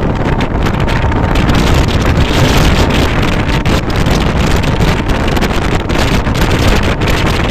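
Local train running at speed: a loud, steady rumble of wheels on track with wind rushing over the microphone.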